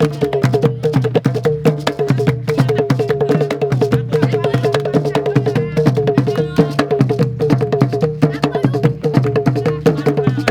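West African drum ensemble, hand drums and a talking drum, playing a fast, dense percussion rhythm.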